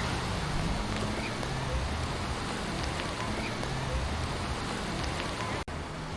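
Beach ambience: a steady wash of sea waves with faint voices of people on the beach and a low engine hum, from a boat offshore, fading after about the first second. A very brief dropout near the end.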